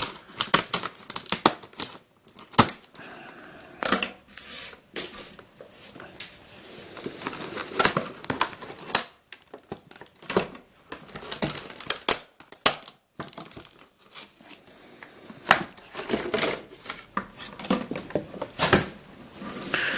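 Stiff plastic toy packaging being cut and pulled open by hand, crackling and crinkling in irregular sharp snaps and rustles. The plastic is thick and hard to cut through.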